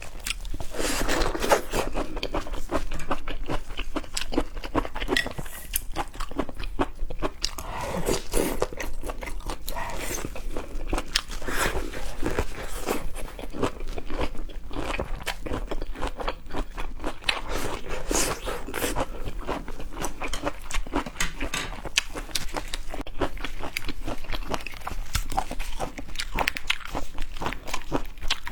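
Close-miked mukbang eating of seafood: continuous chewing and biting with crisp, irregular crunching and clicking.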